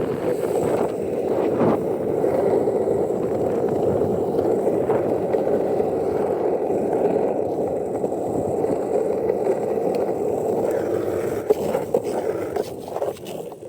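Skateboard wheels rolling steadily on asphalt downhill, a dense rumbling hiss. Near the end the rolling turns uneven, with a few sharp knocks.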